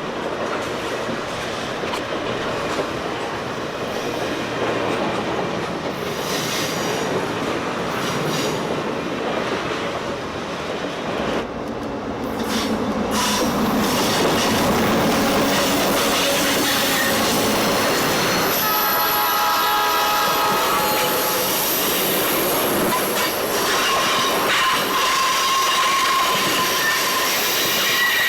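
The real Royal Canadian Pacific train rolling by, its wheels clicking over the rail joints and squealing, getting louder about halfway through.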